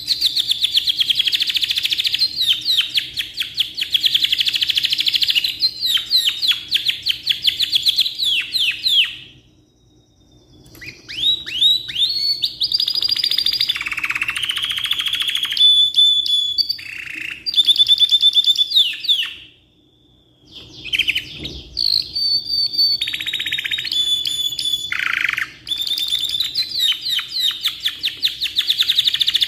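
Black-red canary singing a long, loud song of fast trills and rolls, in three long phrases with two short pauses about a third and two thirds of the way through.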